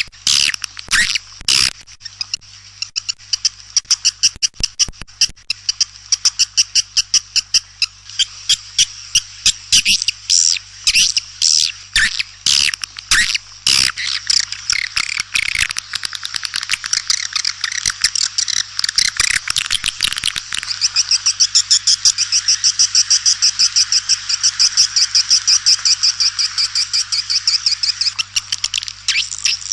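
Swiftlet calls used as a lure: fast runs of sharp, high chirps, settling in the second half into a long, rapid, even trill.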